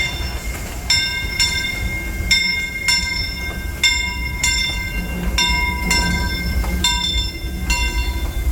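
A moving Disneyland Railroad train: a steady low rumble with sharp metallic clangs about twice a second, each ringing briefly at the same pitches.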